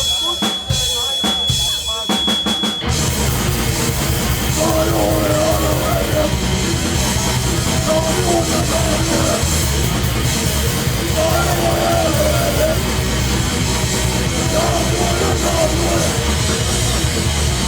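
Live hardcore punk band: a few separate drum hits under a steady high whine of feedback, then about three seconds in the full band comes in with distorted guitars, bass and fast drums and keeps playing loud.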